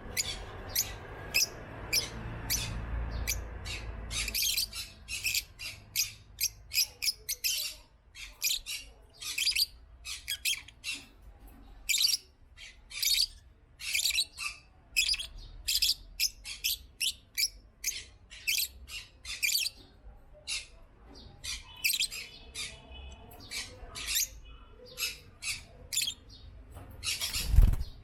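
African lovebirds making many short, sharp, high-pitched chirps and squawks in quick succession. There is a low rumble for the first few seconds and one loud low thump near the end.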